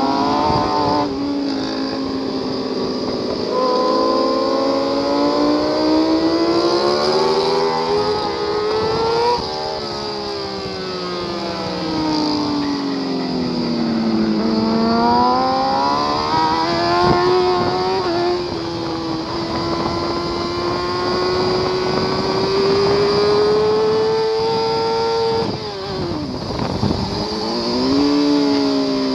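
Sport motorcycle engine heard onboard at racetrack speed, held at high revs with its pitch climbing slowly through long stretches. It eases off and falls in pitch from about ten seconds in, climbs steadily again, then drops sharply near the end before picking back up, over a constant rush of wind noise.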